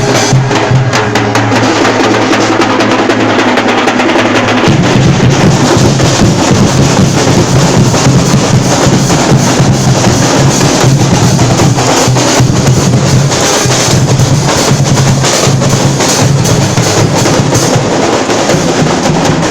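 Loud drumming: dense, rapid strokes over a low drum pulse that grows heavier about four and a half seconds in.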